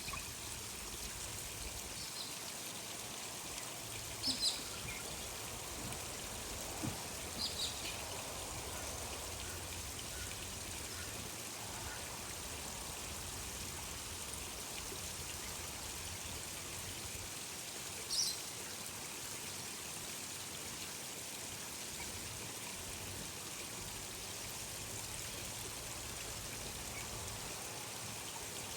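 Steady flow of running water, with a few short, high bird chirps scattered over it.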